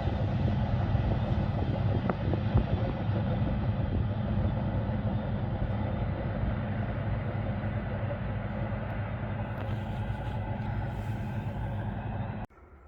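A train running on the line, a steady low hum and rumble with a few sharp clicks in the first three seconds, slowly fading as it moves away. The sound cuts off abruptly near the end.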